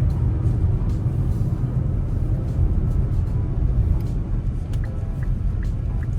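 Steady low road and engine rumble inside a moving car's cabin. Near the end a regular ticking starts, about two and a half ticks a second.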